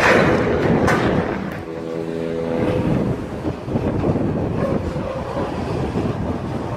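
Train running close by: a steady rumble of wheels on rail, with a loud swell at the start and a brief steady tone about two seconds in.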